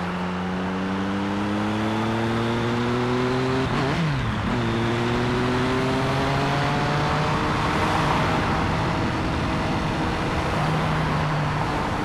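Layered vehicle sound effects: an engine running with its pitch slowly climbing, with a brief sharp drop and recovery about four seconds in, over a steady bed of highway traffic noise with cars passing.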